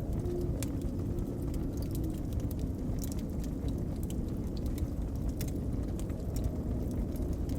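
Wood fire crackling, with frequent irregular sharp pops and snaps, over a steady low rumble of blizzard wind.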